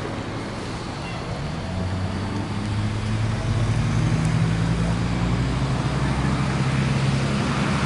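A motor vehicle's engine idling, a steady low hum that grows louder over the first few seconds, over background street traffic noise.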